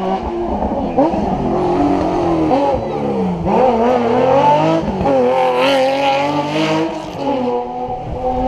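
Historic rally car engine at full throttle, its pitch repeatedly climbing and then dropping sharply as it shifts through the gears.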